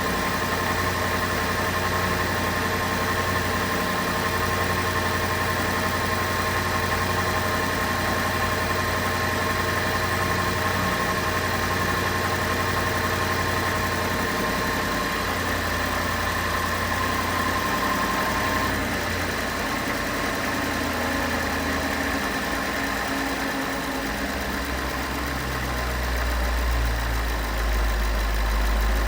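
Porsche 911 flat-six engine idling after a cold start. About two-thirds of the way through a high tone drops out, and a deeper rumble comes up near the end.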